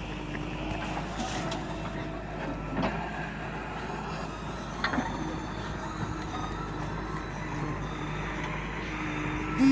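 Diesel engine of a JCB 3DX backhoe loader running steadily, with a couple of short knocks about three and five seconds in. A loud steady tone, like a horn, starts just before the end.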